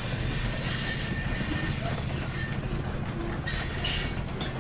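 Train sound effect: a train running along the track, steady throughout, with a brief burst of hiss about three and a half seconds in.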